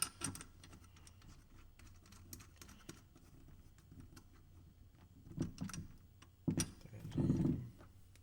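Small metal hardware clicking and rattling as nuts and screws are handled and fitted by hand, with a louder stretch of knocks and handling noise near the end.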